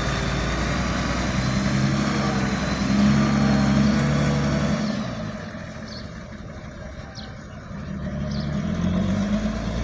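Heavy diesel engine of earthmoving machinery running, its note strengthening about three seconds in, fading through the middle and building again near the end.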